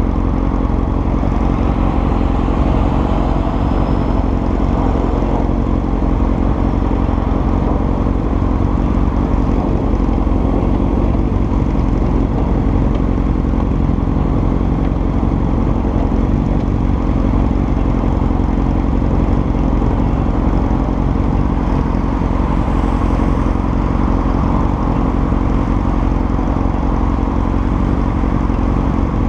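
Honda CBR900RR FireBlade's inline-four engine idling steadily while the bike stands still.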